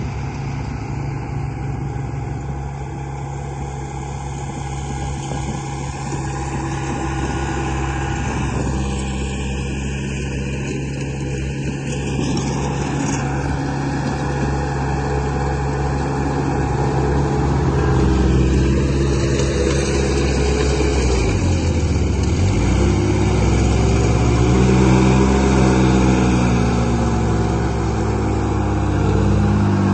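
Radio-controlled construction models running: a steady motor hum with several tones. In the second half its pitch rises and falls as the machines work, and it grows slightly louder.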